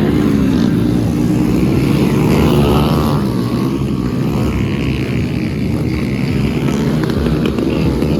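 Small single-cylinder four-stroke motorcycle engines of Honda Pop class bikes running hard in a motocross race, the revs rising and falling.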